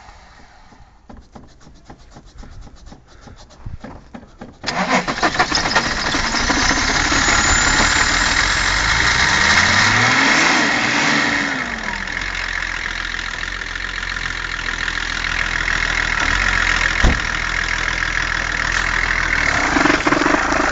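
Opel Omega 2.5 TDS inline-six turbodiesel, cold: a few seconds of faint rapid cranking, then the engine catches suddenly about four and a half seconds in and runs loudly. It revs up and back down once near the middle, then settles to a steady idle and is shut off at the very end.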